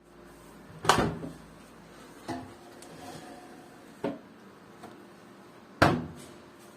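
A series of hard knocks and clunks, five in all, the loudest about a second in and near the end, one of them followed by a short ringing tone.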